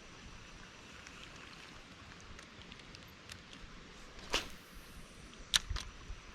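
A fishing rod swishing through a cast about four seconds in, followed a little over a second later by two sharp clicks, over a faint steady hiss.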